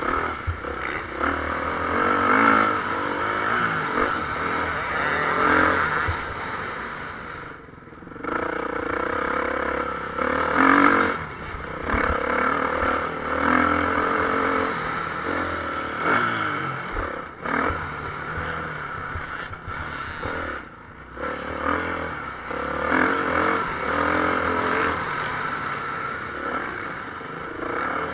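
Motocross bikes racing, their engines revving up and falling off again and again, with the loudness swelling and dropping throughout.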